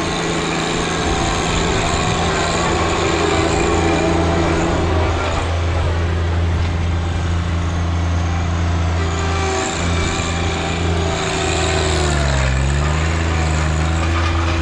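A heavy machine's engine running steadily; near the end its pitch sags briefly and picks back up, as if it is being loaded and recovering.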